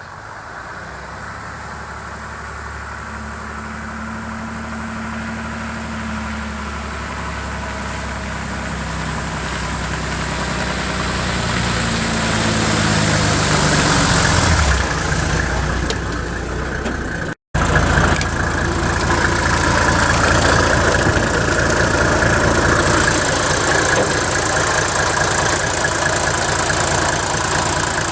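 Mercedes OM603 six-cylinder diesel engine running, getting steadily louder over the first half; it breaks off for an instant after about seventeen seconds, then runs on evenly.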